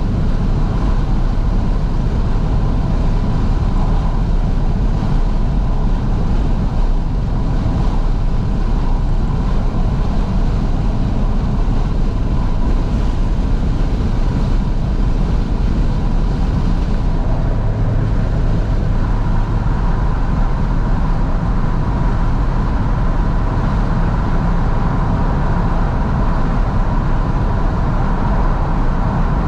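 Steady driving noise inside a 2012 Fiat 500S with the windows wide open: engine and road noise mixed with wind rushing in through the windows.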